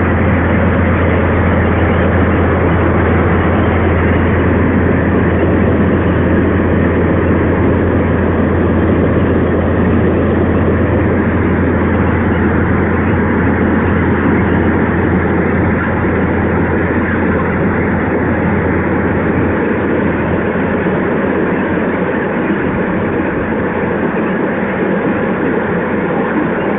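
Train running past with a loud, steady rumble and rushing noise; a low hum under it fades about twenty seconds in.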